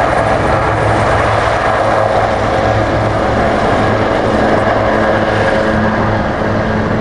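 Helicopter flying the display, its engine and rotor running loud and steady with a fast low beat from the blades.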